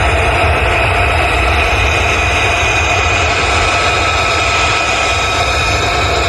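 Jet engine running steadily: a loud, even rumble with a steady high whine over it.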